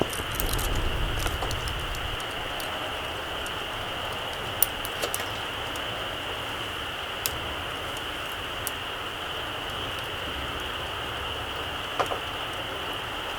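Small wood campfire burning with a steady hiss, broken by a few sharp crackles and pops from the burning wood. A low rumble swells and fades in the first couple of seconds.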